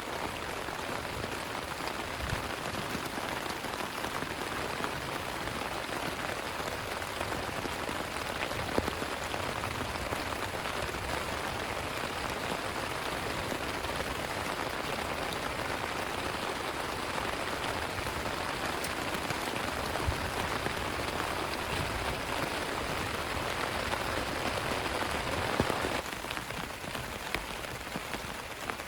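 Heavy rain falling steadily, with a few sharper, louder drop hits scattered through it.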